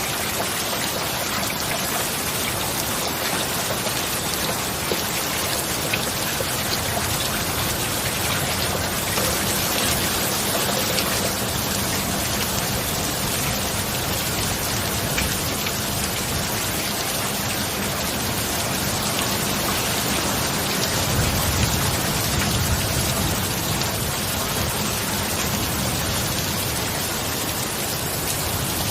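Steady heavy rain, a dense even hiss of drops. About two-thirds of the way in, a low rumble swells for a few seconds.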